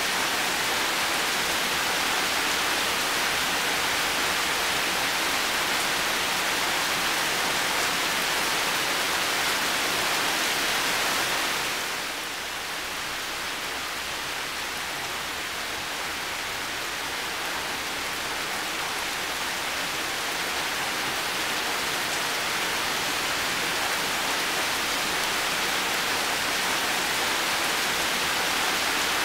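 Heavy rain falling steadily, a dense even hiss. About twelve seconds in it dips a little softer, then slowly builds back up.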